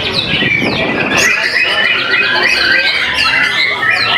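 White-rumped shama (murai batu) singing a fast, unbroken song of short whistled notes, slurs and chattering phrases.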